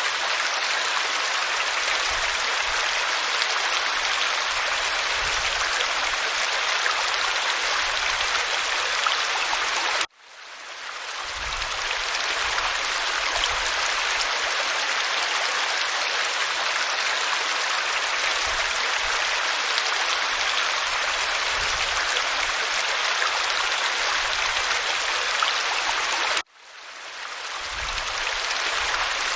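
Waterfall pouring over rock: a steady, full rush of falling water. It cuts out abruptly twice, about ten seconds in and near the end, each time swelling back within a second or two, as at a loop seam in the recording.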